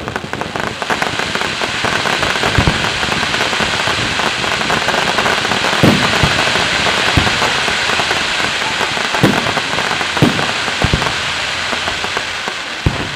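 Fireworks display: a dense, sustained crackle from crackling shells, like heavy rain, with several deeper booms of shells bursting scattered through.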